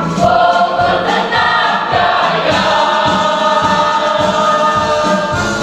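Choir singing a march song in unison over accompaniment with a steady marching beat.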